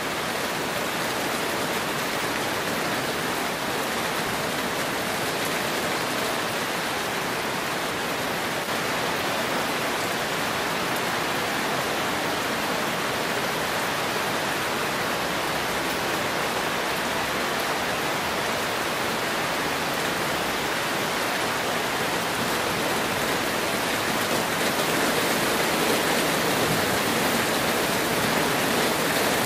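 Heavy rain falling steadily in a downpour, a dense even hiss that grows a little louder near the end.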